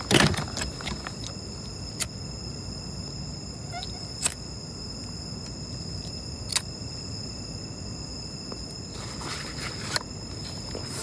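Steady high-pitched chorus of night insects, likely crickets, with a few sharp clicks scattered through it.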